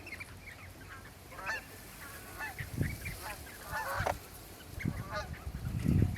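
Waterbirds at a pond giving many short, repeated calls that overlap one another, with a few low thuds, the loudest near the end.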